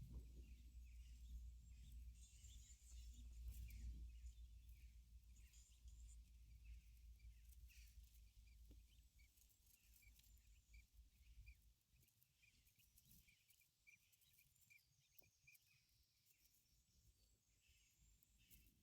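Quail giving soft, short chirps over and over, a few a second, faint throughout. A low rumble sits under them for the first two-thirds and then fades.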